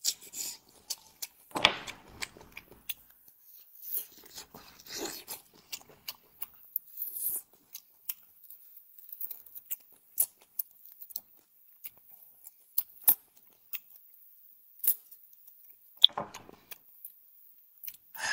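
Close-miked eating: a person chewing and biting food, with sharp wet mouth clicks and smacks scattered throughout and a few louder bites.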